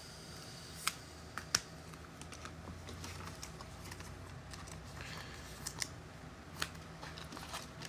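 Faint, scattered light clicks and taps, a few seconds apart, over a low steady hum.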